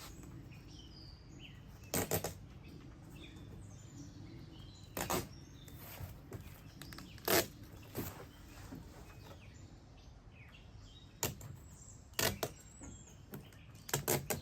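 A handful of short, sharp handling sounds, taps and scrapes, spaced a few seconds apart and bunched near the end, as the Bedrug tailgate liner with its adhesive strips is worked into place. Faint bird chirps sit under a low outdoor hiss.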